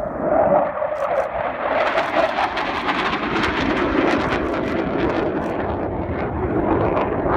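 Panavia Tornado's twin RB199 turbofan jet engines roaring loud and steady as the jet flies past. A droning note at the start fades after about two seconds, as a rougher hiss with crackling builds over it.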